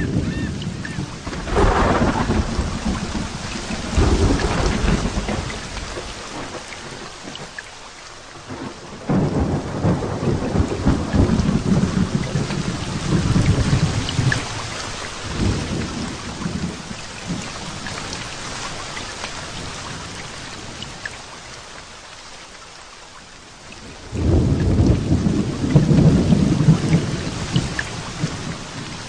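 Heavy rain falling steadily with thunder rolling several times over it: a long roll about ten seconds in and another loud one near the end.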